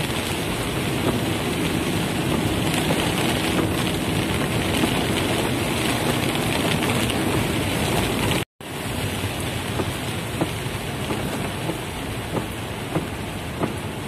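Heavy rain drumming on a car's roof and body, heard from inside the cabin as a steady dense patter. About eight and a half seconds in the sound cuts out for an instant, and after that separate drops striking stand out as sharp ticks.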